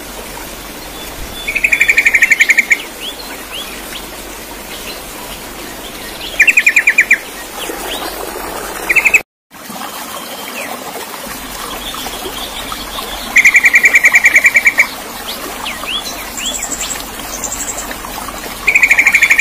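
Birdsong: a bird repeats a loud, fast trill of rapid chirps four times, a few seconds apart, with fainter high chirps in between. The sound cuts out for a moment about nine seconds in.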